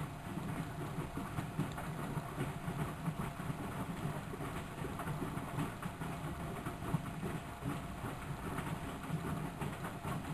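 Miele De Luxe Electronic W763 washing machine running, a steady motor hum with irregular rattling and knocking from the turning drum.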